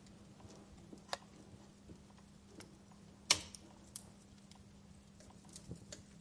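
Wood fire in a fireplace crackling, with scattered sharp pops, the loudest about three seconds in, over a faint steady hum.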